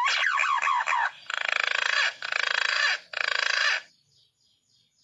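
Green pigeon (punai) lure call: quick whistled notes gliding up and down, then three harsher buzzing bursts, each under a second. It drops off about four seconds in to faint, evenly repeated high chirps.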